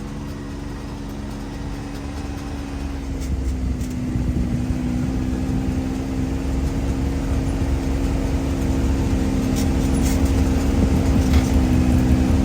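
Can-Am Maverick X3's turbocharged three-cylinder engine idling steadily, growing gradually louder.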